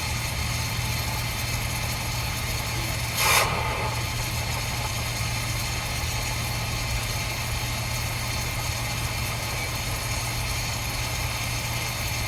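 A steady low machine hum with a constant hiss, broken about three seconds in by a short rush of noise.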